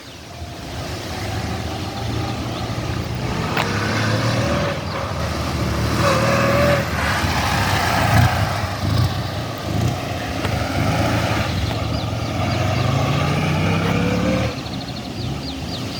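Ural M67-36 motorcycle's flat-twin engine running and being revved, its pitch climbing for a couple of seconds near the end before dropping back.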